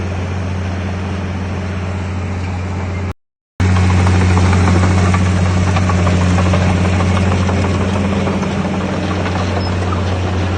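Heavy earthmoving machine's diesel engine running steadily with a deep hum. About three seconds in it cuts out completely for half a second, then comes back slightly louder.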